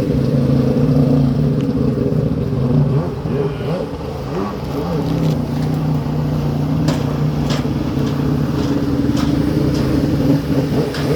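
Sur-Ron electric dirt bike riding along: a steady drivetrain hum over road noise, with a few sharp clicks in the second half.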